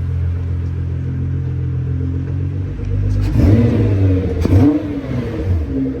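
2017 Nissan GT-R's 3.8-litre twin-turbo V6 idling, then revved sharply twice about halfway through before settling back to idle.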